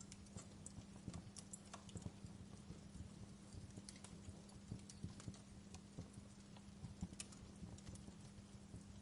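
Wood fire crackling in a fireplace: irregular small pops and snaps several times a second, over a low steady hum.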